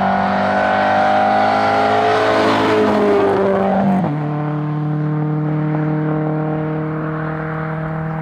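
Hillclimb rally car's engine running at high revs under full throttle. About four seconds in the pitch drops abruptly with an upshift, and the engine note then holds steady, lower.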